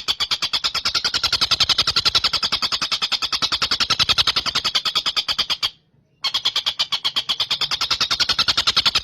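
Tengkek buto bird's rapid, steady chatter of sharp notes, about ten a second. It breaks off for half a second about six seconds in, then starts again.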